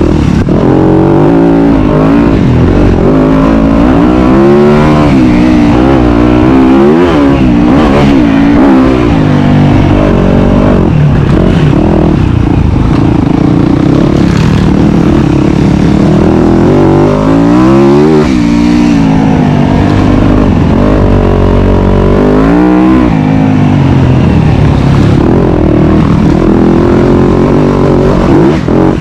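Dirt bike engine running loud and close, revving up and easing off over and over as it is ridden, with the pitch rising and falling every few seconds.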